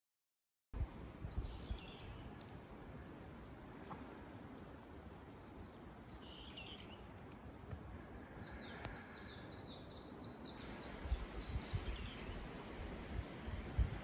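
Small birds chirping and singing in woodland, short calls coming every second or two with a quick run of repeated notes partway through, over a low outdoor rumble with a few soft thumps. The sound starts after about a second of silence.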